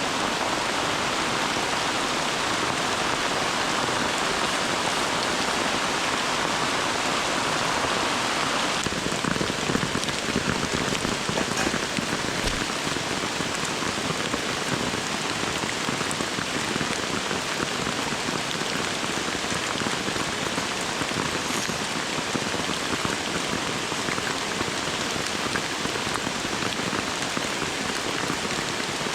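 Heavy tropical rain falling steadily, a dense even hiss with a slight change in its tone about nine seconds in.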